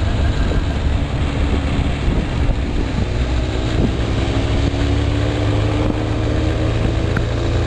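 Inline-four sport motorcycle engine running steadily, heard from the rider's seat, its low tone holding an even pitch under a rush of wind noise on the microphone.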